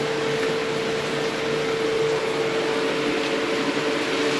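Water running steadily into a bathtub and down its drain during a drain test, an even rushing sound with a steady hum under it.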